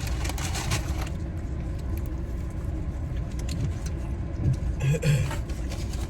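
Car engine idling, a steady low hum heard from inside the cabin, with crackly rustling in the first second.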